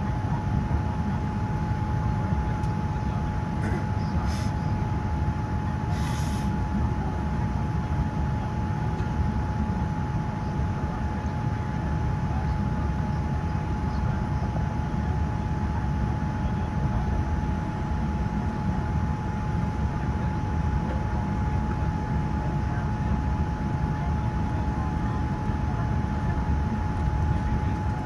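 Steady low rumble of a Boeing 787-10's cabin on the ground, with a constant mid-pitched hum throughout and a couple of faint brief clicks about four and six seconds in.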